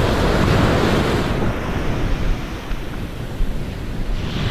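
Ocean surf washing onto the beach, swelling loudest in the first second and building again near the end, with wind buffeting the microphone.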